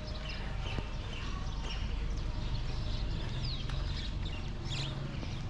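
Small birds chirping in short, scattered calls, some sliding down in pitch, over a steady low rumble.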